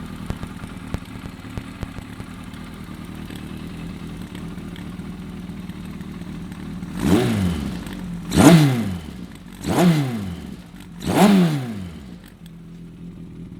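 Freshly overhauled Kawasaki Z1000J air-cooled inline-four engine idling steadily. About halfway in it is blipped four times in quick succession, each rev rising and falling, then it settles back to a quieter idle.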